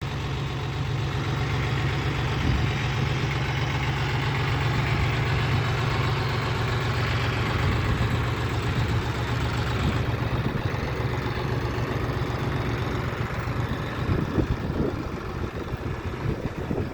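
A 2011 John Deere 5041C tractor's three-cylinder diesel engine idling steadily. About fourteen seconds in, the even hum becomes rougher, with a few louder bumps.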